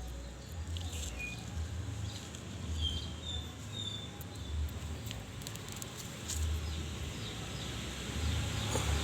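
Outdoor ambience: a low, uneven rumble with a few short, high bird-like chirps about two to four seconds in, and faint scattered clicks.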